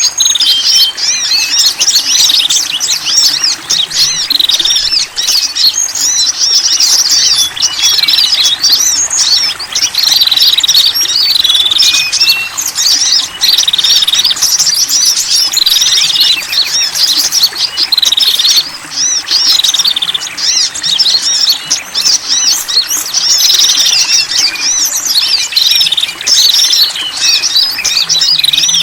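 A dense mix of small songbirds chirping and calling, a bird-lure recording that combines several small wild birds' calls. A short falling phrase repeats about once a second over constant high twittering.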